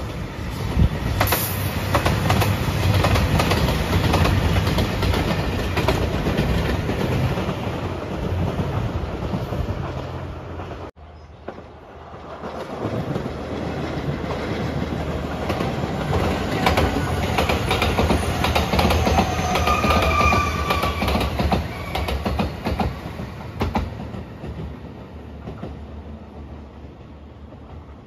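A JR Shikoku 2700 series diesel express train passing, rumbling with wheels clattering over the rail joints. After a sudden break about eleven seconds in, a second train, a Rapid Marine Liner electric train, approaches and passes with the same rail clatter and a brief whining tone, then fades away.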